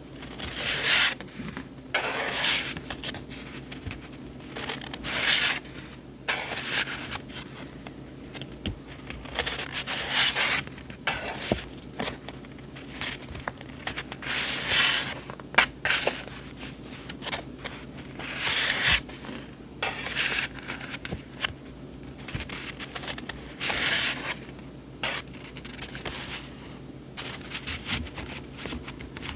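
Sheets of paper being handled and shuffled: repeated rustling swishes a second or two apart, with a few light taps.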